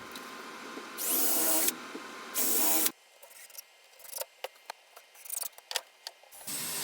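Power drill spinning a countersink bit in two short bursts, the first opening with a rising whine. A few light clicks follow.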